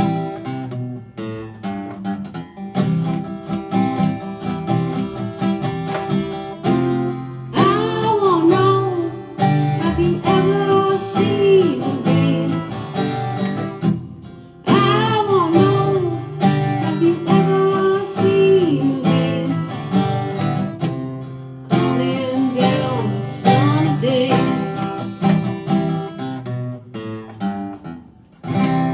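Taylor acoustic guitar strummed in chords, playing out the song's closing section, with a brief break about halfway through before the strumming picks up again.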